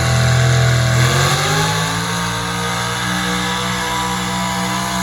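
A pulling vehicle's engine running. Its pitch climbs over about a second, then holds steady at higher revs.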